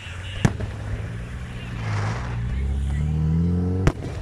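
A car engine accelerating, its pitch climbing steadily over the last second and a half. Two sharp firework bangs cut across it, one about half a second in and one near the end.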